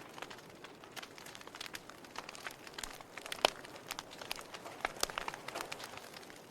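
Wood fire burning in a fireplace, crackling with many irregular small pops over a soft hiss, with one sharper, louder pop a little past halfway.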